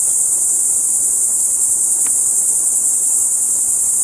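Steady, high-pitched chorus of insects, continuous and unbroken.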